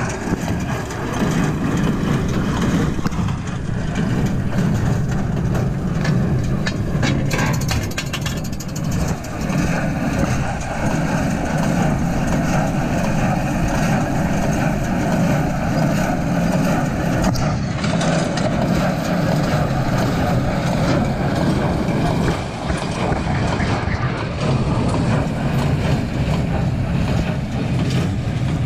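Tractor engine running steadily while pulling a New Holland BC5060 small square baler through the hay windrows.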